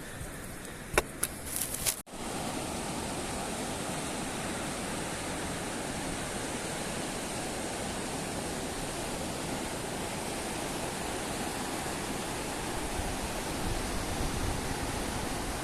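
Steady rush of flowing water. About two seconds in, a few clicks give way at a sudden cut to the continuous rush.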